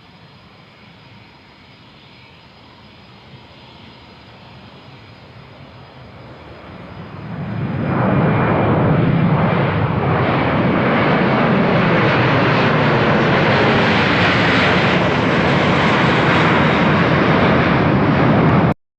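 Jet aircraft running, the KC-390's two IAE V2500 turbofan engines: a faint hum swells into a loud, steady jet noise about seven seconds in, holds, then cuts off suddenly near the end.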